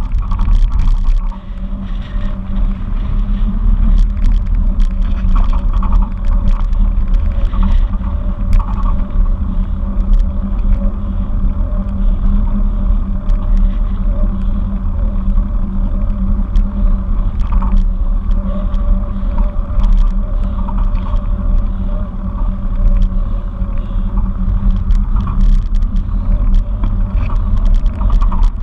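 Wind buffeting the microphone and road rumble from a moving bicycle: a loud, steady low rumble with scattered small clicks and rattles.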